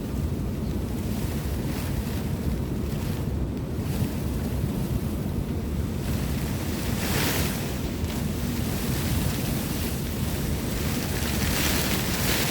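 Heavy storm rain and gusting wind: a steady low rushing noise with wind buffeting the microphone, swelling into a louder hiss twice, about seven seconds in and again near the end.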